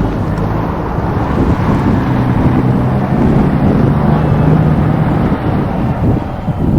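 A train passing at close range with a loud, steady rumble, while wind buffets the microphone.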